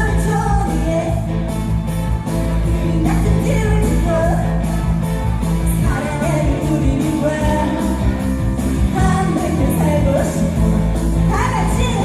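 A female trot singer singing a slow, plaintive trot song over a loud amplified backing track with a steady bass line.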